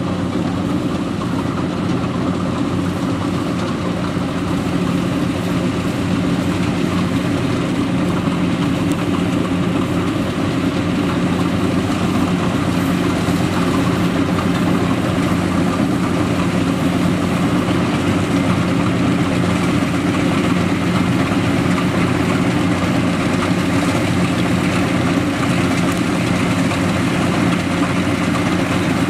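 Yanmar YH700 rice combine harvester's diesel engine running steadily, with an even, unbroken drone.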